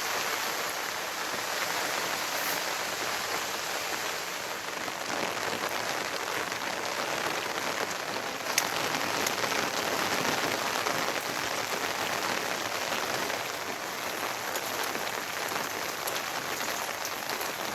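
Steady rain falling and pattering on surfaces, with one sharp tap about halfway through.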